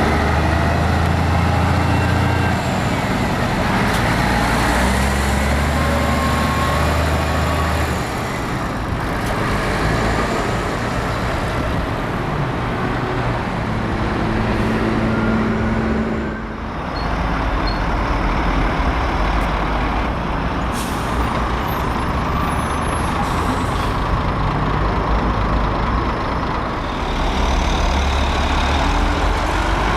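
Heavy diesel trucks running close by, their engine notes rising and falling as they pull through and change gear. The level dips briefly a little past halfway, then the engine sound builds again.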